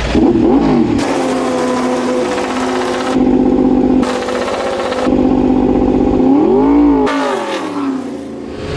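Suzuki GSX-RR MotoGP racing motorcycle's inline-four engine running at high revs across several abruptly cut shots. About two-thirds of the way through, the engine note rises and falls once.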